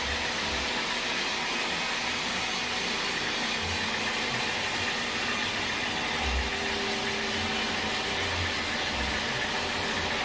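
Steady noise of running sawmill machinery, an even hiss with a few short low thumps.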